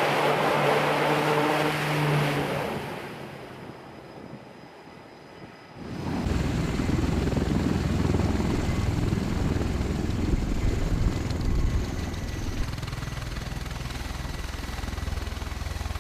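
Aircraft engine noise with a steady pitched hum that fades away over the first few seconds. About six seconds in, a low, steady rumble starts suddenly and carries on.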